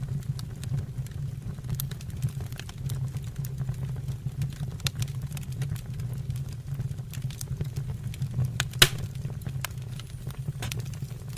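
Wood fire burning in a fireplace or stove: a steady low roar with scattered crackles and pops, one sharp pop standing out near the end.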